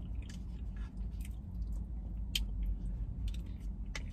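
A person chewing food close to the microphone, with several short, sharp clicks between the chews.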